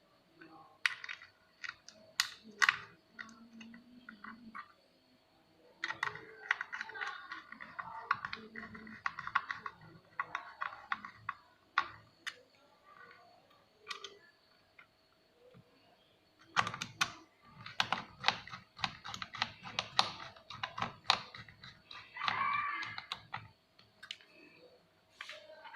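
Irregular clicks, taps and knocks of an induction cooker being handled and put back together, with a quick run of clicks in the second half, over a faint steady hum.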